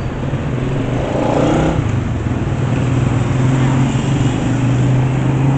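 A motor vehicle's engine running steadily with road noise, its hum rising slightly about two seconds in.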